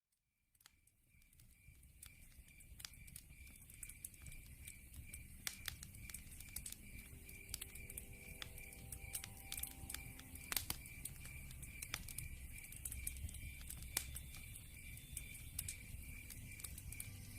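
Log fire crackling, with scattered sharp pops over a low rumble, and crickets chirping in an even pulsing rhythm behind it. The sound fades in from silence at the start.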